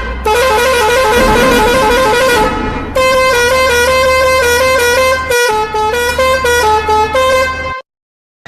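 A musical vehicle horn plays a quick tune of short notes stepping up and down, over a steady low engine hum. It pauses briefly about three seconds in, then cuts off abruptly about a second before the end.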